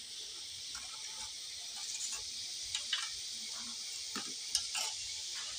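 Sliced onions and chopped coriander sizzling in hot oil in a pan, a steady high hiss, with scattered scrapes and taps of a wooden spoon stirring them against the pan.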